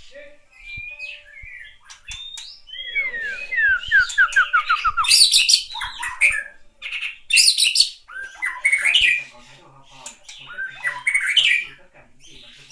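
A bird calling: a quick run of descending whistled notes, then several loud, harsh squawking calls.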